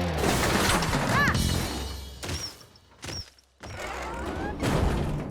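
Cartoon sound effects of mechanical clanking, ratcheting and crashing as something is built, with a few quick whistling pitch sweeps and separate sharp hits, over background music.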